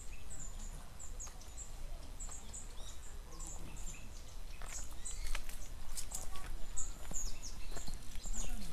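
Small birds chirping: short high chirps repeated again and again. From about five seconds in there is a scatter of sharp clicks.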